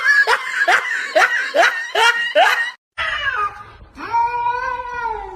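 Someone laughing in short rhythmic bursts, about two a second. After a cut, a long drawn-out cat meow starts about four seconds in.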